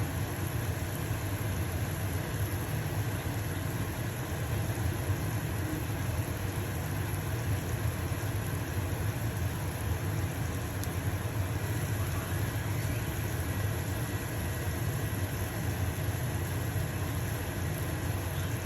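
Stove-top range hood fan running steadily with a low motor hum, and a pancake sizzling in a frying pan beneath it.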